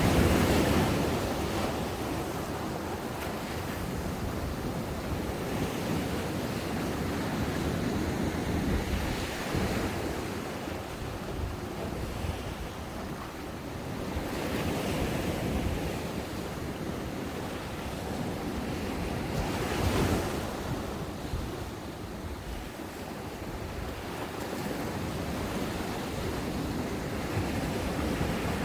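Ocean waves breaking and washing up a sandy shore, a continuous surf wash swelling and easing, with the loudest breakers at the start and about 20 seconds in. Wind buffets the microphone.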